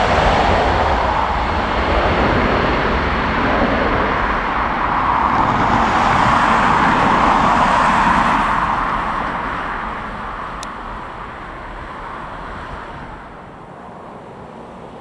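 Jet airliner engine noise, a loud steady rush for about eight seconds that then fades away as the aircraft moves off.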